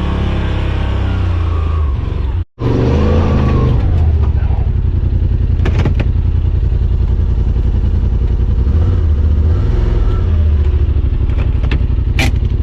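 Side-by-side UTV engine running steadily under load on a rough trail, with a sudden break in the sound about two and a half seconds in. A couple of short clatters come from the machine jolting over the ground.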